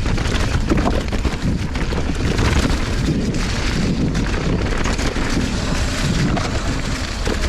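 Wind rushing over an action camera's microphone while riding a mountain bike on a dirt trail, with a steady low rumble and frequent small knocks and rattles from the tyres and bike over the ground.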